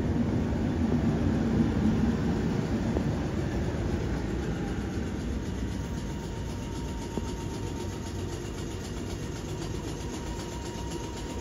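Class 455 electric multiple unit running at the station: a continuous rumble with a low hum that is strongest over the first few seconds and then eases off, and a thin steady higher tone in the later part.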